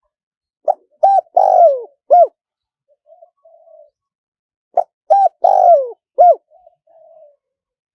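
Spotted dove cooing: two phrases about four seconds apart. Each has four loud coos, the third long and falling in pitch, followed by a soft murmuring note.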